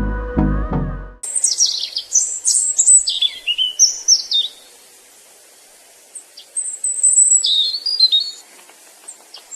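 Background music with a steady beat cuts off about a second in, and a songbird sings: quick high chirps and short down-sliding notes, pausing for a couple of seconds midway before starting again.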